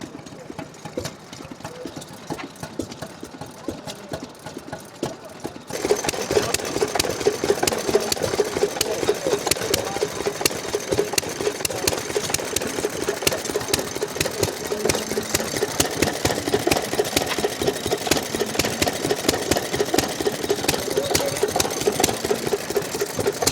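Vintage stationary engine running with rapid, even firing. About six seconds in, the sound steps suddenly much louder and busier.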